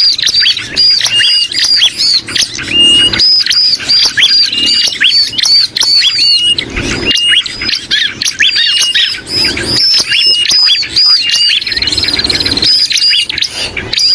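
Bird-lure recording of bar-winged prinia calls layered with agitated and distressed sooty-headed bulbul calls: a dense, loud, nonstop stream of rapid, overlapping high chirps, with a fast buzzy trill near the end.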